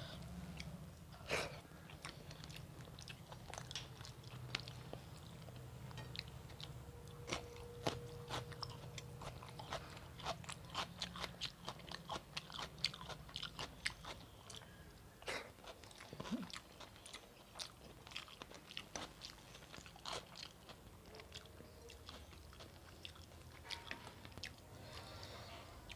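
Close-up chewing and biting sounds of a person eating rice with spicy chicken-and-potato curry: many small wet mouth clicks and crunches, thickest about halfway through, over a steady low hum.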